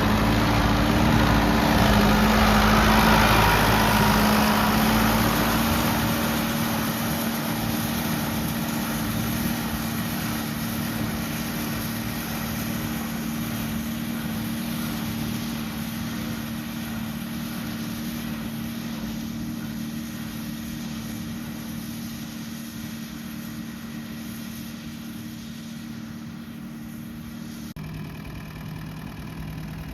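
Ford 5000 tractor's four-cylinder engine running at a steady speed, slowly growing fainter. Near the end its note drops suddenly to a lower pitch.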